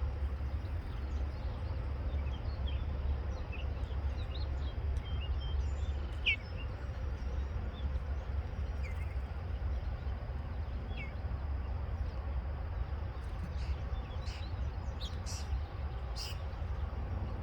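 Scattered short bird chirps, spaced several seconds apart, over a steady low rumble. A few short, sharp high ticks come near the end.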